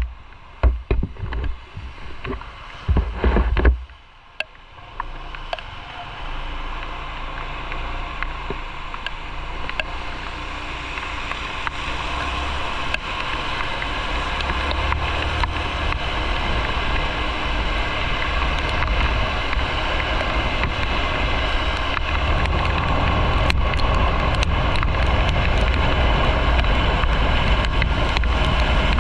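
Motorcycle riding with wind buffeting the on-board microphone: gusty low rumbles for the first few seconds, then a steady rush of wind, engine and road noise that grows gradually louder as the bike picks up speed.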